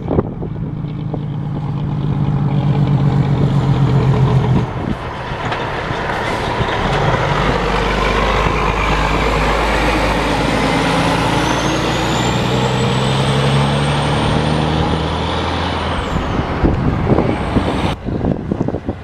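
Heavy dump truck's diesel engine running and driving past, with a short dip about five seconds in, a high whine rising through the middle and falling away near the end.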